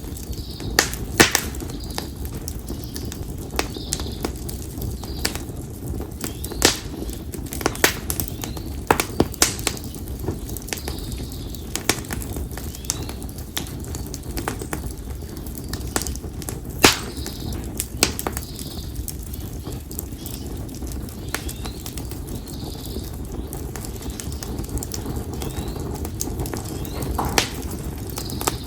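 Split konara oak firewood crackling in an open campfire: sharp, irregular pops and snaps over a steady low rumble of the flames. Faint bird calls repeat every second or two behind it.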